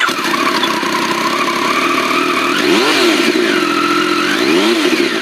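Motorcycle engine running steadily, then revved twice, its pitch rising and falling about three seconds in and again near the end.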